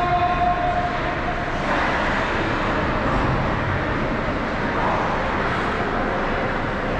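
Steady ice-rink noise during a youth hockey game, a dense even wash of sound, with a thin steady tone that ends about a second and a half in.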